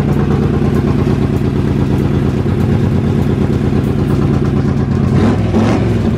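A race car's carbureted engine idling loudly and steadily, revved briefly about five seconds in before settling back to idle.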